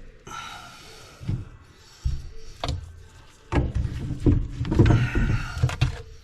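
Thumps, knocks and clatter of hands and tools working on a drain pipe, with a short hiss about a second in. The knocking grows busier and louder from about halfway through.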